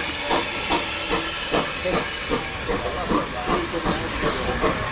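Steam locomotive working, its exhaust beating in an even rhythm of about two and a half chuffs a second over a continuous steam hiss.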